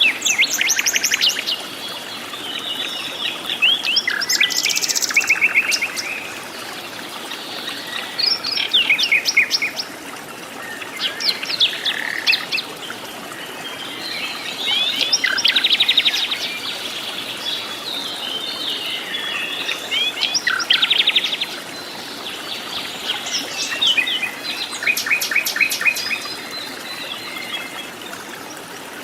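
Jungle birds singing: phrases of quick repeated chirps and trills come every few seconds, over a steady background hiss.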